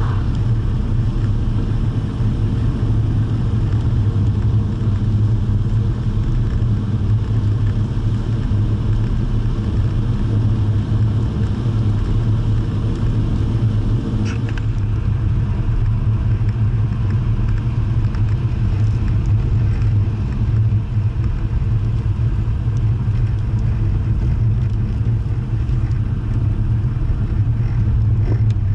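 Jaguar E-type engine running at a steady cruise, a low, even drone with road and wind noise and no revving.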